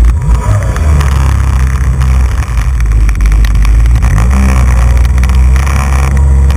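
Jet ski engine running hard at speed, a loud steady drone whose pitch rises briefly about four seconds in before settling again.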